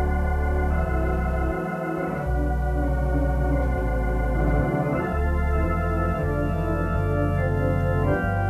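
Organ playing sustained chords over a deep bass line, the chords changing every second or two.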